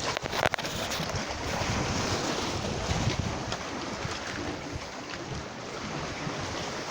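Sea waves with wind buffeting the microphone, a steady rushing noise, with a few brief knocks in the first half second.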